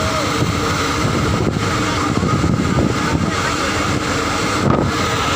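Engine of a small passenger motorboat running steadily.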